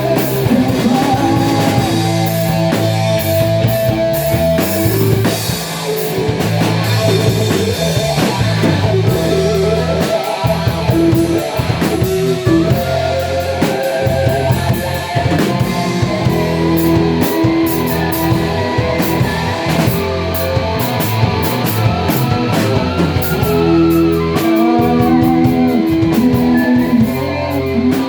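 Rock band playing: electric guitar over bass and a drum kit, with the music running steadily.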